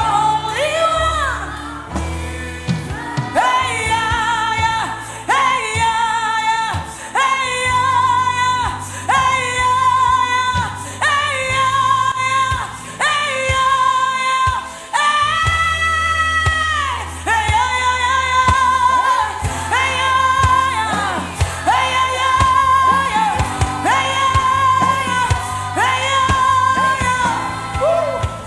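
Gospel worship singing: a voice holding long notes of about a second each, sliding between them, over instrumental accompaniment with a steady bass line.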